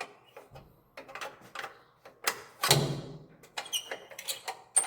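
Hand tools working the exhaust muffler clamp: irregular metal clicks and knocks, the loudest two a little past halfway, with a quicker run of lighter taps near the end.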